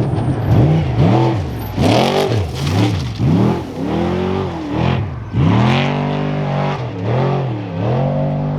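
Trophy truck's race engine revving up and down over and over, its pitch climbing and dropping about every half second as the throttle comes on and off, with a louder surge near the middle.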